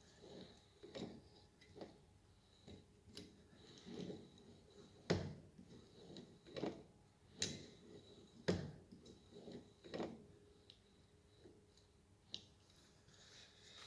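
Irregular light metallic clicks and knocks from hand tools and parts while adjusting a car steering rack's preload plug, about one a second, with a few louder knocks around the middle.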